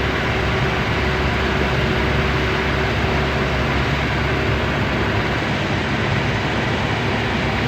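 Truck engine running steadily under way, a constant drone with a steady hum over road noise.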